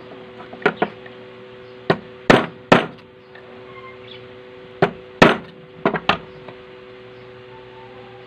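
A series of sharp knocks and taps, about nine in all in clusters of two or three, from work on a Singer edger sewing machine, over a steady low hum.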